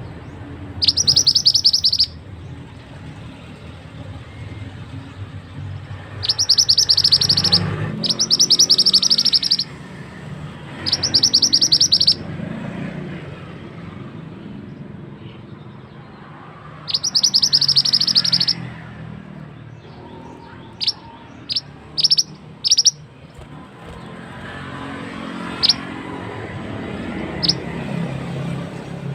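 Mantenan (black-naped monarch) calling: five fast, high, rattling trills of about a second each, then a run of short, sharp single notes in the second half. Flowing water runs steadily underneath.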